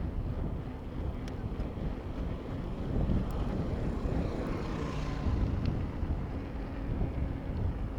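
Wind buffeting the microphone of a bicycle POV camera while riding, over a steady low rumble of road and traffic noise. About halfway through, a brighter hiss swells and then fades.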